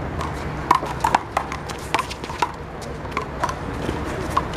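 Sharp, irregular slaps and bounces of a big blue rubber handball off hands, wall and court during one-wall handball play, mixed with short sneaker squeaks on the court.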